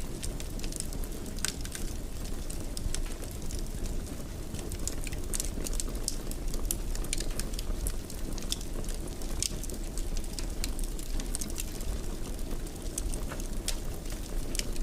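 Wood fire crackling in a fireplace: a steady low rumble of the burning with frequent, irregular sharp pops and snaps.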